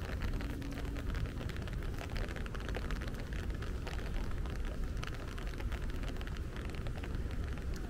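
Steady rain falling, many small drop ticks over a steady low rumble.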